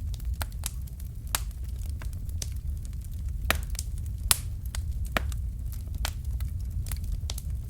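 Fire in a fireplace crackling with irregular sharp pops, a couple of louder ones around the middle, over a steady low rumble of the flames.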